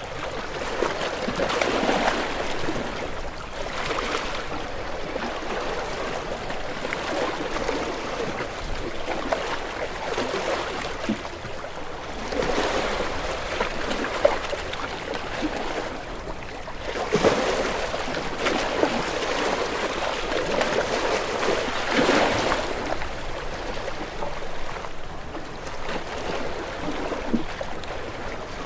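Sea waves breaking and washing in, swelling in irregular surges every few seconds.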